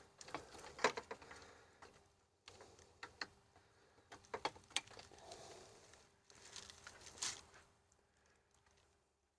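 Light clicks, knocks and rustling as a plastic radiator cooling fan assembly is handled and fitted into a car's engine bay, in scattered groups with the sharpest knock about a second in.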